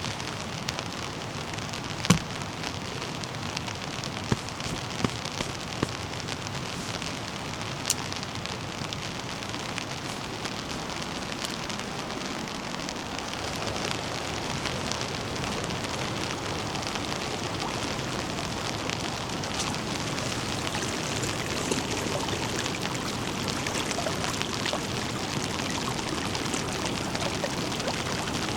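Heavy rain falling in a steady hiss, with a few sharp drop-like ticks in the first eight seconds; the rain grows a little louder about halfway through.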